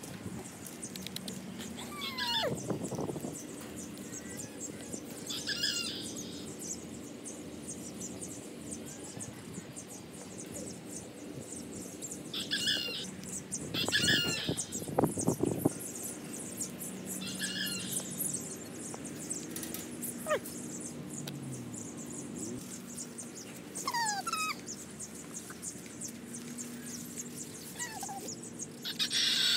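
Short, high bird chirps every few seconds, with a few falling whistled notes, over a faint steady low hum.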